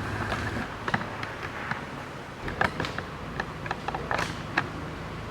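Scattered light clicks and taps of metal engine parts and hand tools being handled during engine assembly, with a short scrape about four seconds in.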